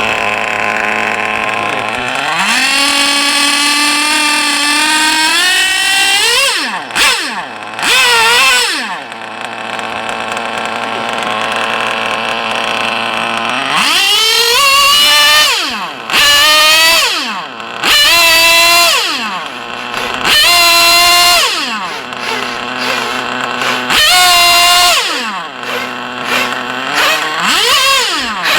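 An engine being revved again and again: its pitch climbs and falls back about eight times, with short sharp blips and a steadier stretch at idle-to-mid speed about a third of the way in.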